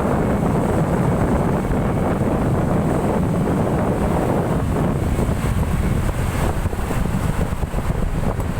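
Steady low rumble of a moving truck, with strong wind buffeting the microphone.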